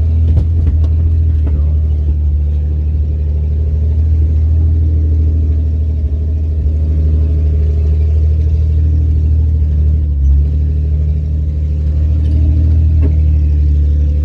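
Jeep engine running steadily at low speed, heard from inside the cab, as the Jeep drives slowly over an off-road trail.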